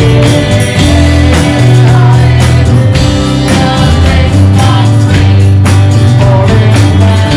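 Live church worship band playing loud, with sustained bass notes and a steady drum beat.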